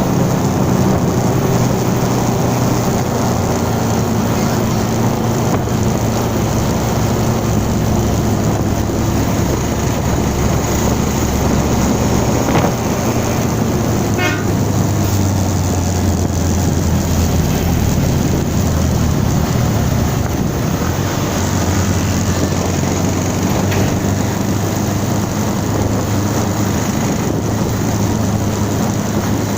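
Steady engine and road noise from a moving vehicle, with a brief horn toot about halfway through.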